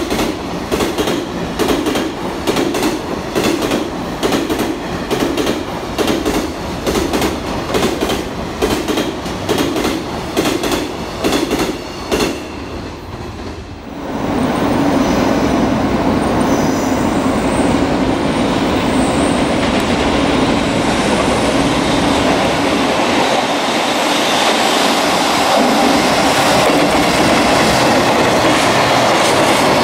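Long freight container train passing at speed, its wheels clicking over the rail joints in a quick, even rhythm. About halfway through this gives way to a steadier, louder rumble of wheels and wagons as another freight train hauled by an electric locomotive goes by.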